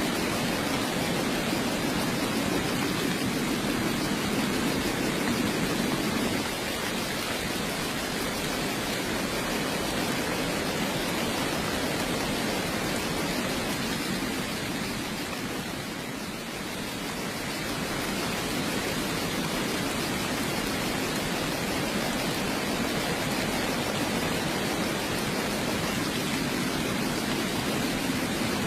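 Steady heavy rain, an even hiss with a deeper layer that fades about six seconds in and comes back near the end. The rain eases briefly about halfway through.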